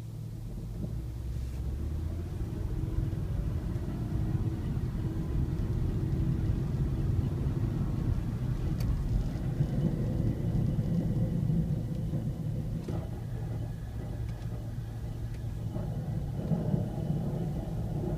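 Car brakes worn down to metal, grinding with a low rumble as the car rolls: the pads have no friction material left, so their backing plates rub directly on the rotors.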